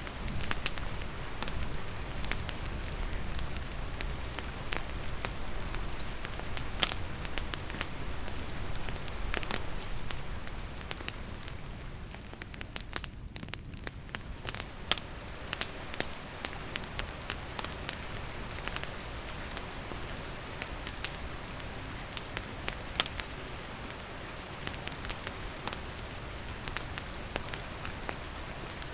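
Steady rain pattering, mixed with a wood campfire crackling: many sharp pops scattered throughout. The rain hiss thins briefly about halfway through.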